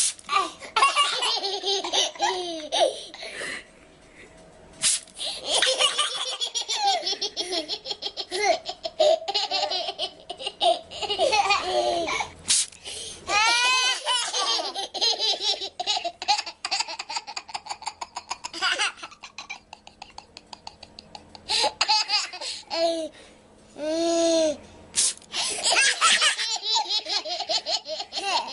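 Two toddlers laughing hard in long, repeated peals of baby belly laughter, with short breaks between fits. A spray bottle gives a few quick spritzes of water mist that set the laughter off.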